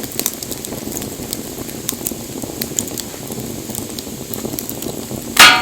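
Wood fire crackling steadily with many small pops, and one loud sharp crack near the end that rings briefly.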